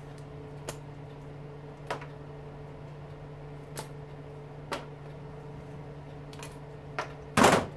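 Light, scattered clicks of retaining clips being pried out of an electric lawnmower motor, with one much louder clatter about seven seconds in, over a steady low hum.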